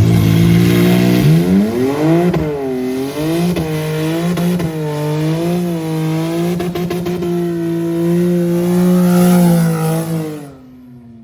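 Car doing a burnout: the engine revs up and is held at high revs, the pitch swinging up and down for a few seconds as the throttle is worked, then holding steady, with a hiss of spinning tires over it. The revs fall away and the sound drops off near the end.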